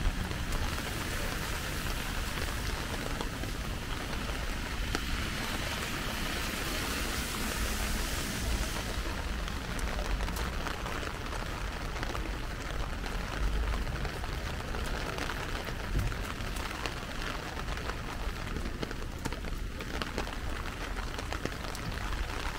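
Heavy rain falling, a dense hiss of pattering drops with a steady low rumble underneath. The high hiss softens a little about nine seconds in.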